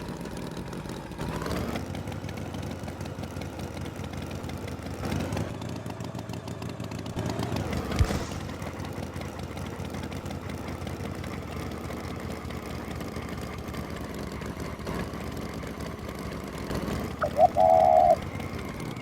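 A tractor engine running steadily. Near the end comes a short, loud, pitched sound.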